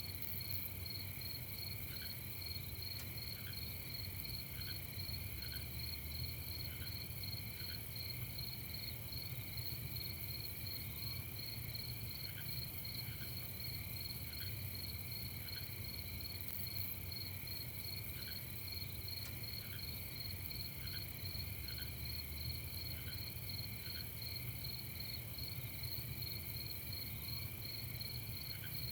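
Night chorus of crickets chirping steadily in a dense, even pulse, with occasional short, lower chirps scattered through it.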